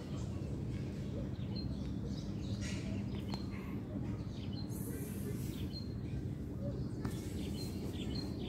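Small birds chirping in short high notes every second or so, over a steady low rumble.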